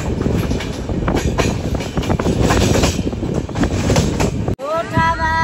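Bihar Sampark Kranti Express running along the track: a loud, steady rumble with many rattling clacks. It cuts off sharply about four and a half seconds in, and a voice follows.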